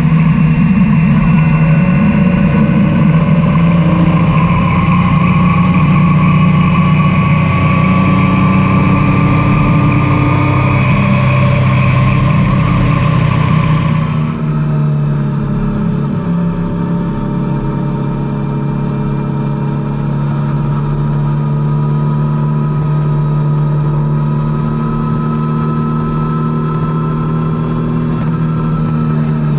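Triumph Tiger 800's three-cylinder engine running under way, its pitch slowly climbing. About halfway through, the pitch and loudness drop and the engine note becomes smoother, then the pitch climbs slowly again.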